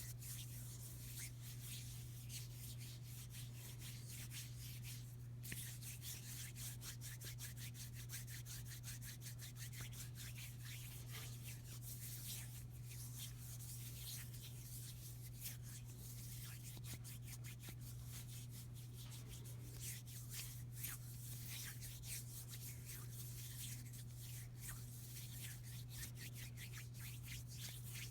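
Hands rubbing together close to the microphone, a fast, dry, continuous rustle of skin on skin. A steady low hum runs underneath.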